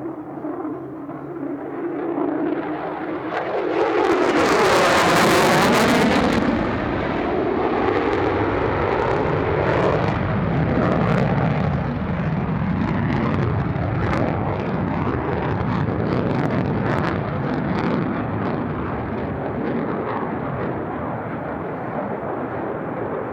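F-35A Lightning II's F135 jet engine as the fighter flies past: the noise swells to its loudest about five seconds in with a sweeping, phasing sound, then trails off into a long rumble with sharp crackles.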